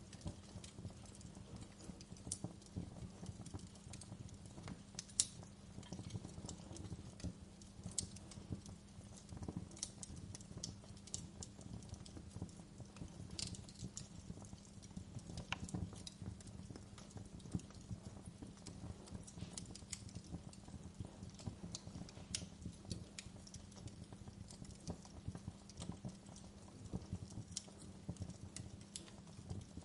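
Wood fire crackling: a dense, irregular run of small crackles with sharp pops scattered through it, one louder pop about five seconds in, over a steady low background.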